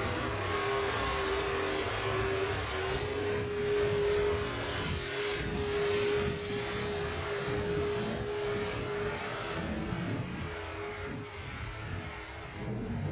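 Airbus A330 airliner's jet engines on landing approach: a steady rushing noise with one held hum-like tone that fades out about two-thirds of the way through, the whole sound easing off slightly near the end.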